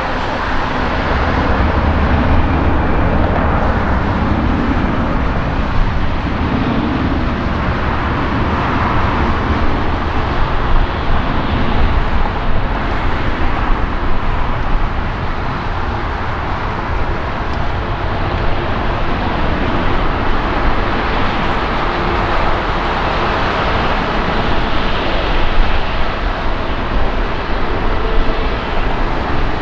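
Jet airliner engines heard outdoors, a loud, steady rushing noise that holds at much the same level throughout.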